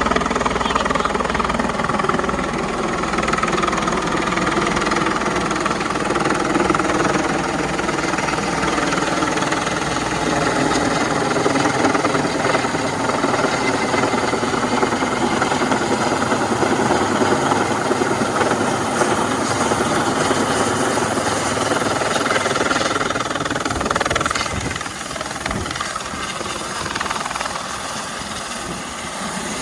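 Life-flight medical helicopter running close by, its rotor beating in a fast steady pulse over the engine's steady tone; it gets somewhat quieter near the end.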